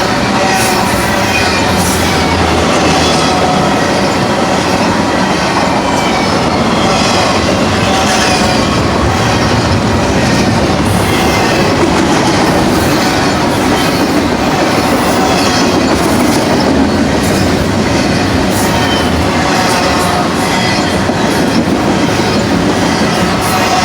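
Double-stack container train cars rolling past: a steady loud rumble of steel wheels on rail, with occasional clicks and faint high wheel squeal.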